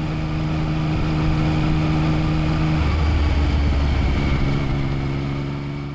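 Engine running with a steady drone. About three seconds in it changes to a deeper, heavier hum, then fades out near the end.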